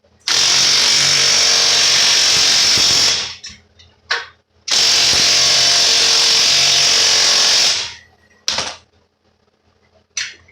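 Impact driver tightening lag screws into the wall. It runs in two long pulls of about three seconds each, with short blips between them and near the end.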